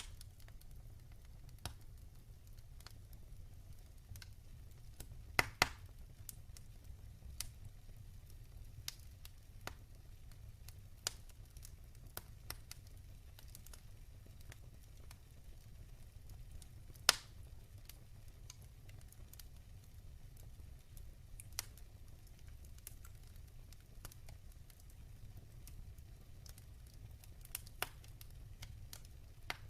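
Wood fire crackling in a fireplace: a low steady rumble with scattered sharp pops and snaps. The loudest are a quick double pop about five seconds in and a single sharp pop about seventeen seconds in.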